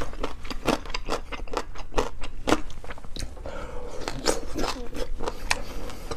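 Someone eating a duck foot: a rapid, irregular run of crunchy bites and chewing on cartilage and small bones.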